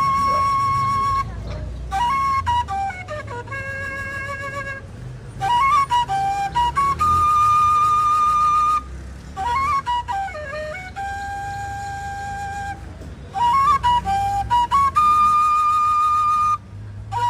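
Solo flute playing a slow melody: quick ornamented turns that settle into long held notes, a new phrase about every four seconds.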